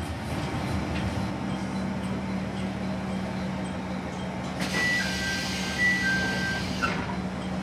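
Stationary diesel railcar idling with a steady low hum. About halfway through, a hiss starts, a two-tone chime sounds twice (high then low), and it all stops with a click.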